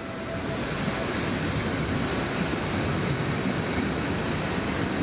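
Diesel train running on the rails: a steady rumble of engine and wheels, with faint quick clicking near the end.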